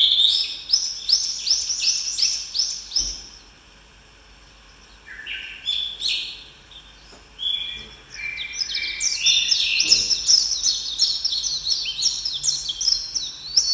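Songbirds singing: runs of quick, high chirping notes that drop in pitch. There is a lull about three seconds in, and the song grows busier again from about eight seconds.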